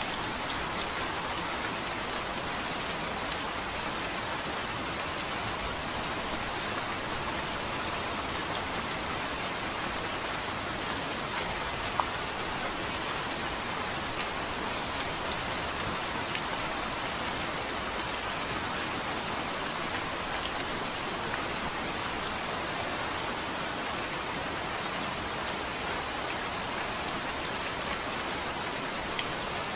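Steady rain falling, an even hiss with scattered sharper drop ticks, one a little louder about twelve seconds in.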